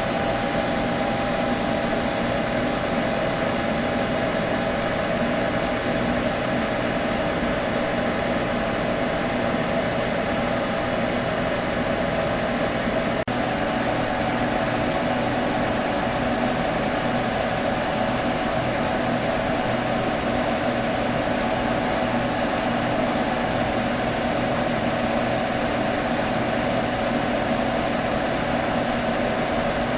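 Computer running with a steady hum: its fans give an even whoosh with a constant low tone and a stronger mid-pitched tone over it. The sound breaks for a moment about halfway through.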